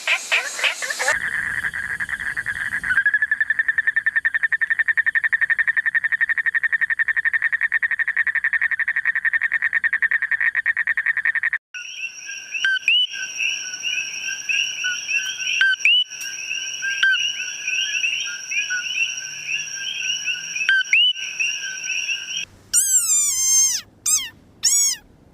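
A run of frog calls, one species after another. First, briefly, music frogs; then a black-spectacled toad gives one long, even trill for about ten seconds. Next comes a small frog with chirping, birdlike calls for about ten seconds, and near the end a short-headed rain frog gives loud squeaks that drop in pitch, like a squeaky toy.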